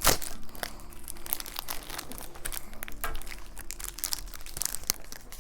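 Plastic candy wrapper crinkling and rustling as it is handled, in many short irregular crackles.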